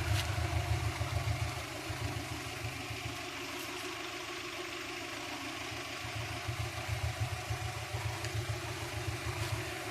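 Car engine idling, a steady low rumble that swells and eases, loudest in the first second or so and again in the last few seconds.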